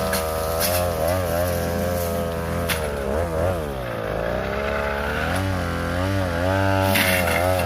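42cc two-stroke brush cutter running at high revs, its engine note dipping as the blade bogs in the brush about three seconds in, then picking back up, with sharp ticks of the blade striking stems.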